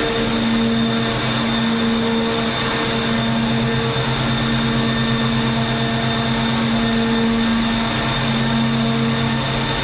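Daikin water-cooled chiller running steadily: a constant machine drone with several held tones, low and high, that do not change.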